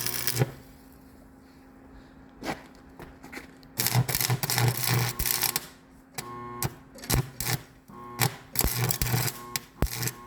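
Irregular mechanical clicks and clatter, sparse at first and thicker from about four seconds in, over a faint steady hum.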